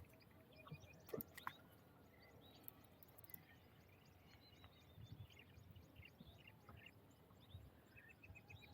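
Near-silent open-air quiet with faint bird calls and chirps, and a soft knock about a second in.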